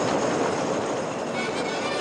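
White Pass & Yukon Route diesel train running, a steady noise of engines and wheels on track. Music starts to come in over it about one and a half seconds in.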